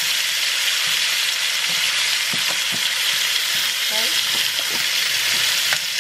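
Steady sizzle of bacon-wrapped asparagus and chicken frying in pans on the stove, with a few soft knocks and scrapes of a masher working boiled potatoes in a pot.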